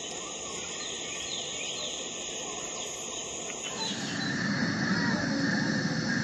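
A steady hiss with faint chirps, then, a little over three and a half seconds in, a train's low rumble and a steady squeal start and grow louder as it approaches.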